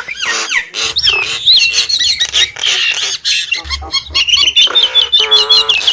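Nias hill myna calling: a rapid run of whistles, squawks and sharp clicks, with a lower, longer call near the end.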